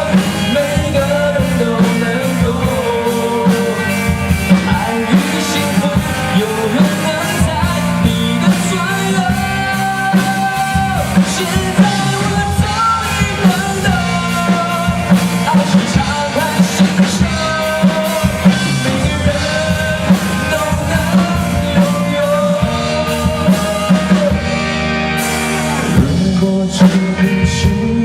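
A live rock band playing a mid-tempo song with drums, bass guitar and electric guitar, a melodic lead line carried over a steady beat.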